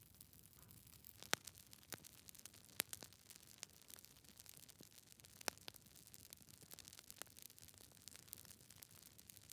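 Wood fire in a fireplace crackling: burning logs give off scattered small ticks and a few sharp, louder pops, the strongest a little over a second in, near three seconds and about halfway through, over a faint steady hiss.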